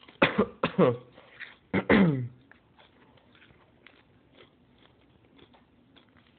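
Short wordless human vocal sounds, a quick run of them and then one longer one about two seconds in, each falling in pitch. After that, only faint small clicks.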